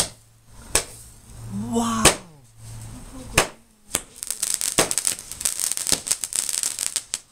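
Fireworks going off: several sharp separate bangs, then from about four seconds in a dense crackling of many small pops that lasts about three seconds.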